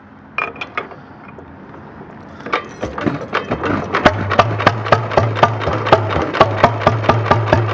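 1929 Economy XK 3½ hp throttle-governed single-cylinder flywheel engine catching after hand-cranking: a few sharp clicks, then it starts firing about two and a half seconds in and settles into a fast, even run of exhaust beats, about four or five a second, with a steady hum underneath.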